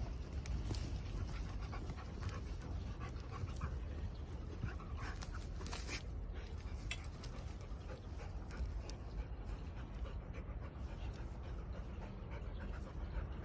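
A dog panting, over a steady low rumble and a few scattered short ticks.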